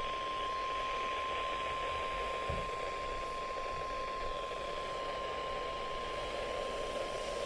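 NOAA Weather Radio warning alarm tone, a single steady 1050 Hz tone held without a break over a hiss of radio static. It is the attention signal sent just before a new warning is read out.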